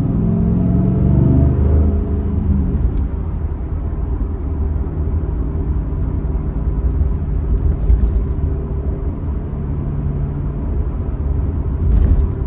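2002 Pontiac Trans Am WS6's LS1 V8 pulling under acceleration, revs rising for about two seconds, then settling into a steady cruise.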